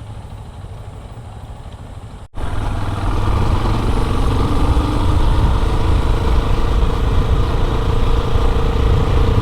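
Motorcycle engine running steadily at low level. About two seconds in, the sound cuts to a much louder motorcycle under way, its engine pitch slowly climbing as it picks up speed.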